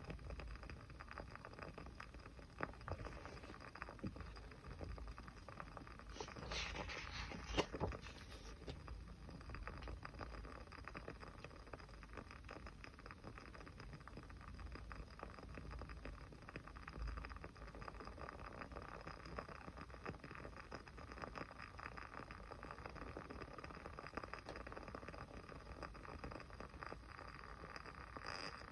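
Small fire crackling: a dense run of faint ticks and pops, with a louder flurry of crackling about six to eight seconds in that ends in one sharp pop.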